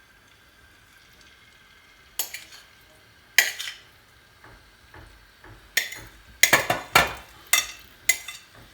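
Marinated chicken pieces being spooned from a bowl into an oiled frying pan: a spoon knocks and scrapes against the bowl and pan, twice a few seconds in, then in a quick run of strikes near the end, over a faint steady hum.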